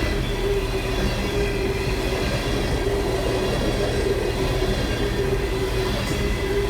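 Long freight train of empty ethanol tank cars rolling steadily past, a continuous rumble of steel wheels on the rails with a faint whining tone from the wheels that comes and goes.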